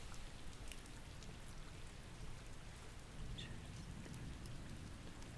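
Steady rain falling, with scattered light drip ticks.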